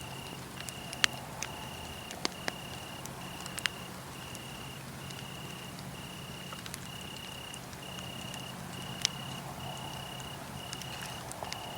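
Wood fire crackling with a few sharp pops, the loudest about a second in and about nine seconds in, over a cricket chirping in an even pulse a little under twice a second.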